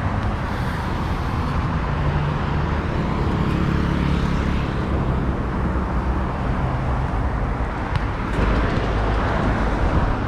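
Outdoor street ambience of steady road traffic, with a low rumble and a vehicle's hum in the middle, and a sharp click about eight seconds in.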